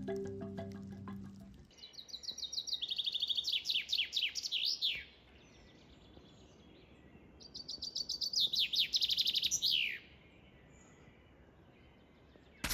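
Background music fading out, then a songbird singing two songs a few seconds apart. Each song is a fast run of high notes that turns into a series of falling sweeps.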